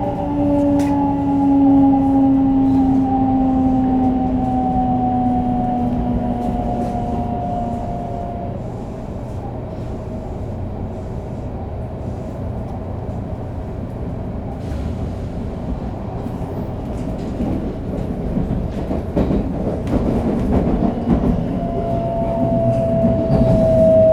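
On-board running sound of a 500 series Shinkansen with Toshiba GTO-VVVF inverter drive: a steady rail rumble with the inverter's whine falling slowly in pitch as the train slows. The whine fades out about a third of the way in, and a new falling tone comes in near the end.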